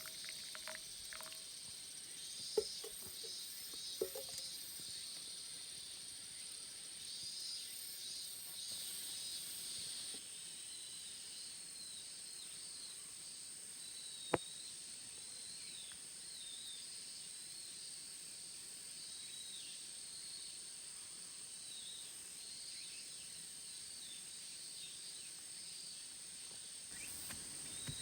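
Insects singing: a steady high-pitched drone under repeated short chirps, with three sharp snaps, two in the first few seconds and one about halfway through.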